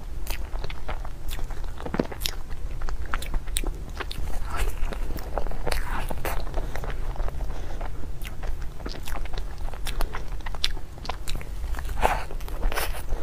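Close-miked eating sounds of cream puffs being bitten and chewed: many small, irregular mouth clicks and soft crunches over a low steady hum.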